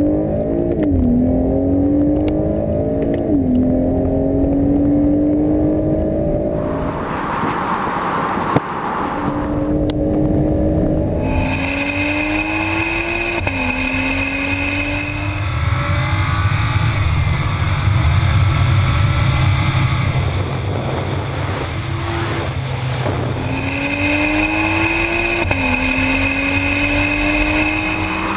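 Tuned BMW 135i's turbocharged straight-six pulling hard through the gears, 375 PS: the engine note climbs steadily and drops sharply at each upshift, over and over. Midway it settles into a steadier low drone for several seconds before climbing through the gears again.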